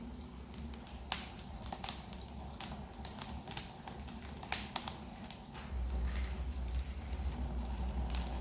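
Wood fire crackling in the firebox of a wood-fired kiln, with scattered sharp pops over a steady low rumble that grows louder about six seconds in.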